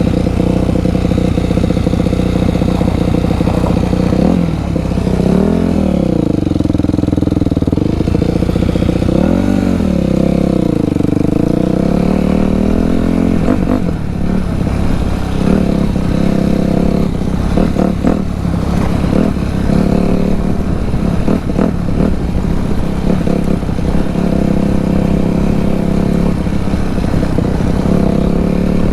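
Dirt bike engine running at high revs, its pitch dropping and climbing back twice, about five and nine seconds in, as the throttle is rolled off and opened again. Later the note turns choppy and uneven, with short rattling knocks.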